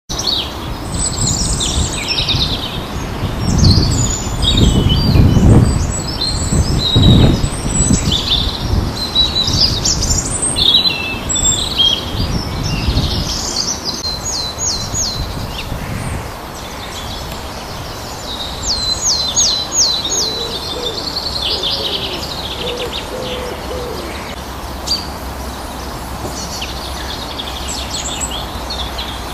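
Several wild birds singing and calling together: rapid chirps, trills and quick series of falling whistled notes. A low rumble runs under the first half and fades out about halfway.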